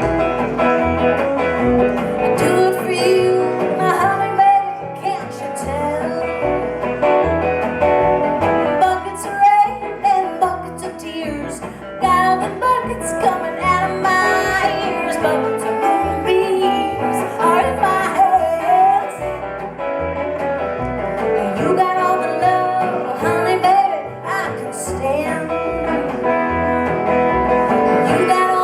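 Live acoustic music: plucked guitar accompanying singing.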